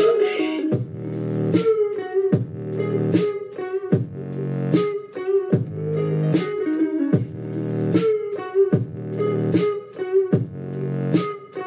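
A rock song with guitar and a steady drum beat, about one hit every 0.8 seconds, playing through a T&G 117 portable Bluetooth speaker with no vocals in this stretch.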